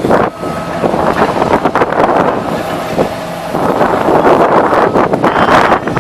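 Demolition machinery at work: a steady engine drone under dense crunching and clattering of breaking debris, with wind buffeting the microphone.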